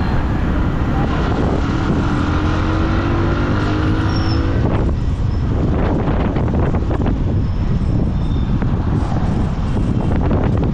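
Boda boda motorcycle engine running under way, with wind buffeting the microphone and road traffic around. The engine pitch rises briefly about two seconds in, and a scattering of short clicks and knocks comes in the second half.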